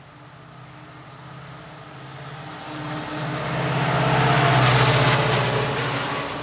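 A passenger train approaching at speed and passing close by: a low rumble that swells, peaks about four to five seconds in, then eases off.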